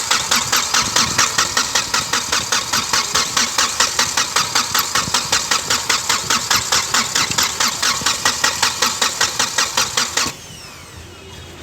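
Starter motor cranking a common-rail diesel engine without it firing: an even chugging at about five compression strokes a second that cuts off suddenly about ten seconds in. The engine is being turned over to bleed air from the Delphi injectors, with the pump's IMV unplugged.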